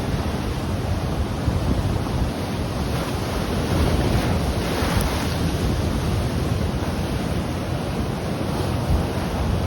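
Ocean surf rushing on the shore, a steady wash of noise that swells briefly about halfway through, with wind buffeting the microphone.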